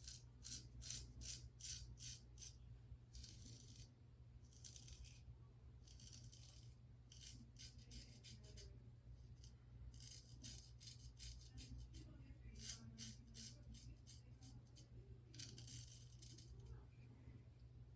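Vintage straight razor scraping through lathered stubble in quick, short strokes: a faint run of crisp scratches, two or three a second, in bursts with short pauses between.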